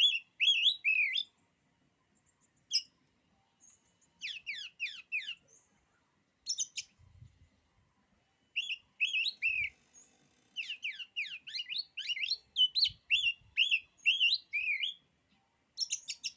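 Oriental magpie-robin (kacer) singing: bursts of rapid, falling whistled notes and chirps, separated by short pauses.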